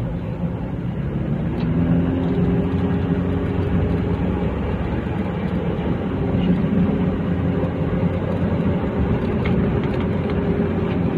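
A motor running steadily, its pitch rising and falling slightly.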